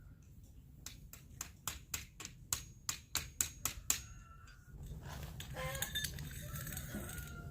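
About a dozen light metallic taps or clicks, roughly four a second, as a T-post is worked on while fencing is joined to it. A steady low rumble follows near the end.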